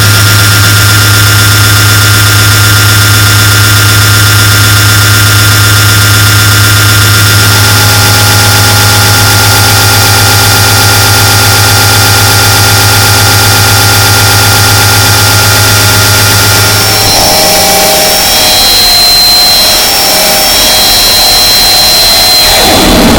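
Loud electronic noise music: a dense wall of hiss layered with steady held tones over a strong low drone. About 17 seconds in, the low drone drops out and higher held tones take over.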